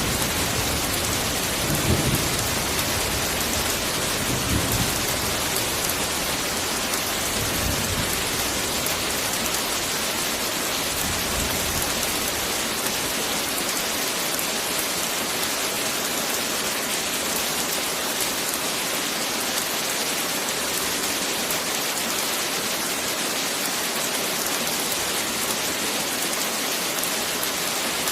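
Heavy rain falling steadily, with rolls of thunder rumbling low several times in the first half before fading away, leaving the rain alone.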